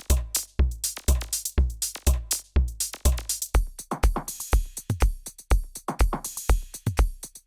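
Korg drumlogue drum machine playing one of its preset patterns: a deep kick drum about twice a second, with hi-hats and short clicky percussion between the beats.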